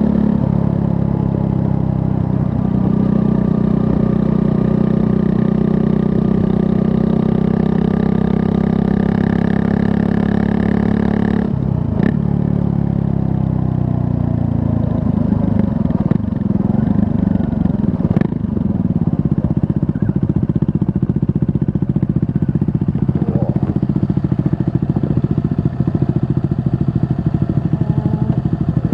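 Triumph Scrambler 400 X's 398 cc liquid-cooled single-cylinder engine running under way, holding a steady note for about eleven seconds. About twelve seconds in there is a brief break and the engine note drops lower, then rises and falls, with another short break around eighteen seconds.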